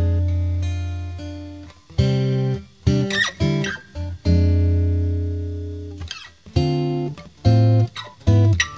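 Acoustic guitar music: plucked notes and strummed chords, each struck and left to ring out, over sustained bass notes.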